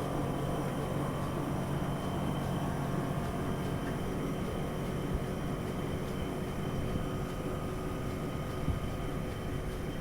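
Heidelberg SM 52 four-colour offset printing press running steadily, a continuous mechanical noise with a faint steady hum.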